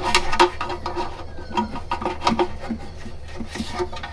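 Irregular scrubbing and rubbing strokes as an engine sump is washed clean by hand.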